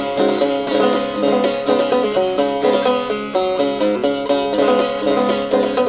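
Banjo picking an instrumental passage of the folk tune, a quick, even stream of bright plucked notes.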